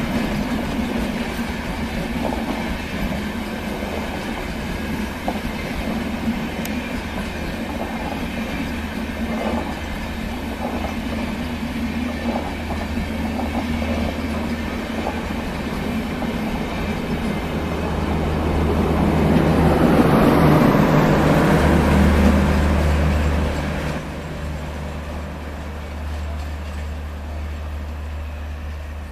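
Rajdhani Express LHB coaches rolling slowly past, wheels clicking over rail joints over a steady low rumble. The sound swells as one car passes about two-thirds of the way through, then drops back as the train moves off.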